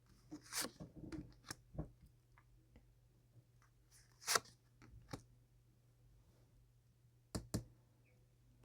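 Tarot cards being handled: a scattering of short, faint snaps and slides as cards are shuffled and drawn from the deck, with a few sharper ones about four seconds in and again near the end.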